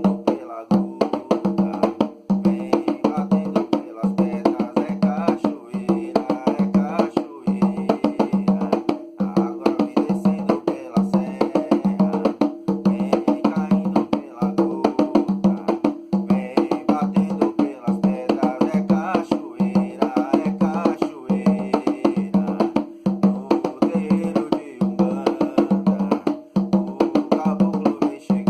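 Umbanda ponto music carried by drums and percussion beating a fast, steady rhythm.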